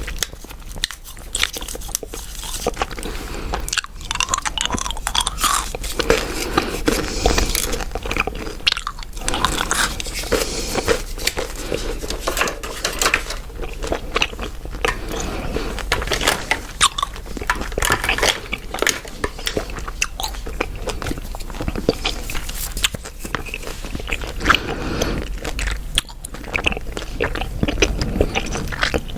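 Close-miked chewing gum being chewed, a continuous run of sharp, wet clicks and crackles.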